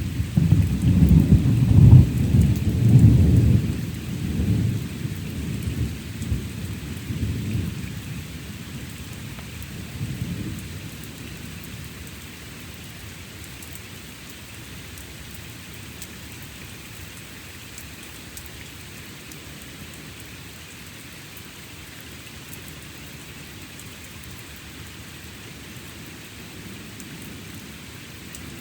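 Close thunder rumbling loudly at first, then rolling and fading away over about ten seconds, over steady rainfall that carries on alone afterwards.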